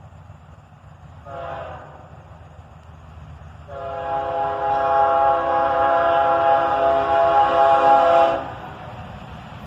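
Diesel locomotive air horn sounding a salute: a short blast about a second in, then a long blast of about four and a half seconds, over the steady rumble of the passing train.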